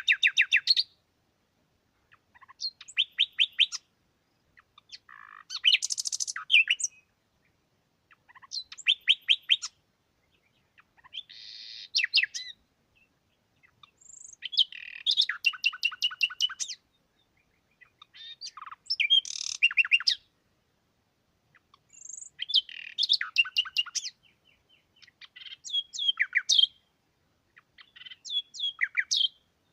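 A songbird singing, phrase after phrase: each song is a quick run of sharp, trilled notes lasting one to two seconds, repeated about every three seconds, with quiet gaps in between.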